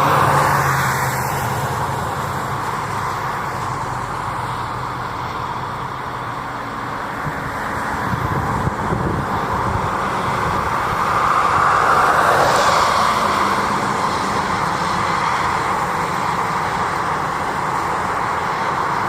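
Fire department command car driving by on a call, its engine and tyre noise building to a peak about twelve seconds in as it passes, then easing off.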